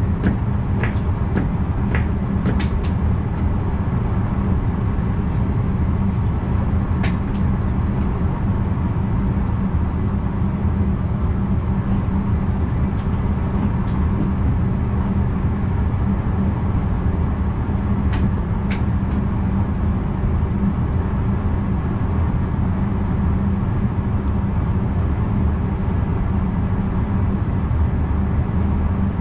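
Steady running noise inside the driver's cab of a VIRM double-deck electric train on the move, heaviest in the low rumble, with occasional sharp clicks, several in the first few seconds.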